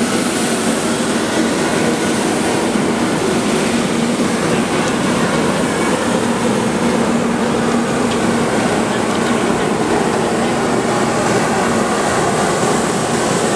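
A 100 series Shinkansen train running, a steady mechanical hum with a held low tone.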